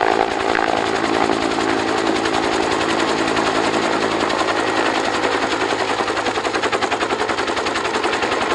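Bell UH-1H Huey helicopter running, its two-bladed main rotor beating in a rapid, even rhythm over a steady engine hum.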